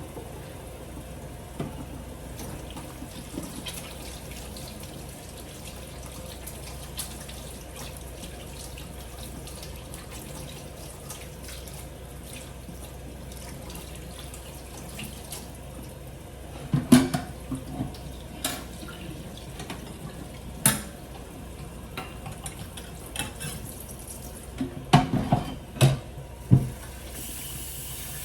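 A sink tap running steadily, as hands are washed under it. About two-thirds of the way through come several sharp knocks and clatters, a few close together near the end and louder than the water.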